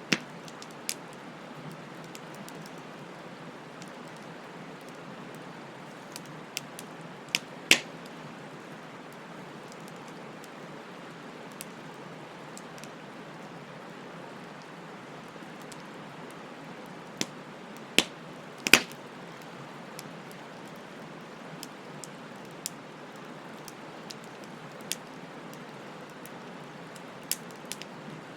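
Wood fire crackling: a steady soft hiss with scattered sharp pops, the loudest a little over a third of the way in and a pair about two-thirds of the way through.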